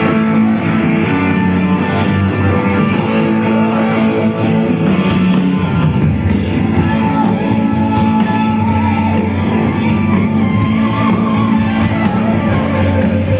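Live rock band playing a rock-and-roll song, led by guitar.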